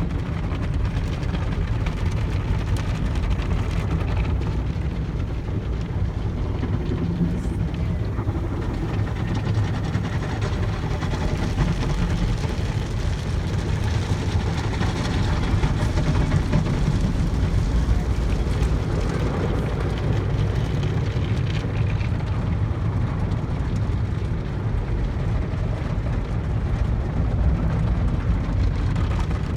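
Automatic car wash tunnel running on the car, heard from inside the cabin: a steady rumble and hiss with no breaks.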